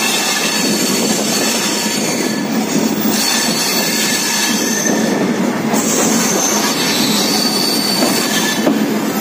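Superfast express train pulling out of the station, heard from the open door of a moving coach: a steady rumble of steel wheels on the rails, with a thin high squeal that comes and goes.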